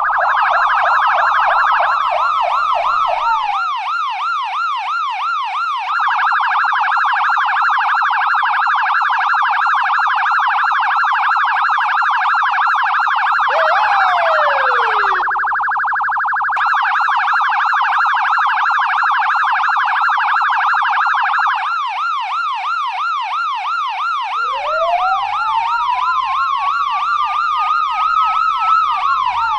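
US police car electronic siren cycling through its tones. It goes from fast yelping sweeps to long stretches of a very rapid trilling warble, back to yelps, then a slow wail that rises and then drops near the end.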